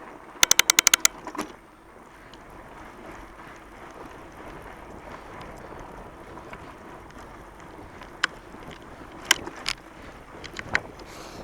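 Fat bike riding over a packed snow trail: a steady rush of tyre and wind noise. About half a second in comes a quick run of about eight sharp clicks from the bike, and a few single clicks follow later.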